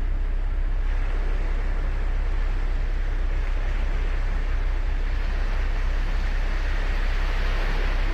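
Ocean surf on the beach: a steady rush of breaking and washing waves over a low rumble, swelling a little about a second in and more strongly toward the end.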